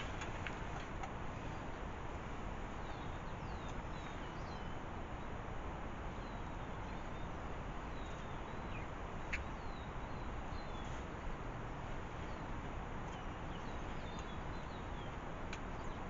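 Woodland ambience: a steady background hiss with small birds chirping again and again in short, high, falling notes, and one sharp click about nine seconds in.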